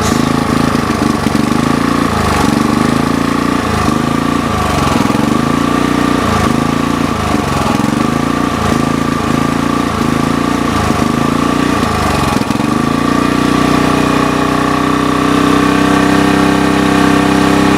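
Sportsman GEN2000 portable generator engine running after a carburetor replacement, its note pulsing up and down at an even rhythm, about three times every two seconds. About two-thirds of the way through it settles into a steady, slightly louder run.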